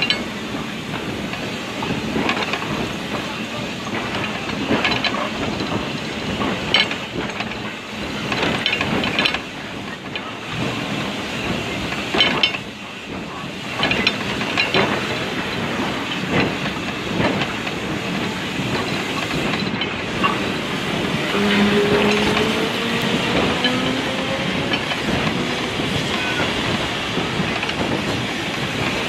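Heritage railway train running slowly over jointed track, heard from on board: a steady rumble of wheels on rail with irregular clicks and clacks as the wheels cross rail joints.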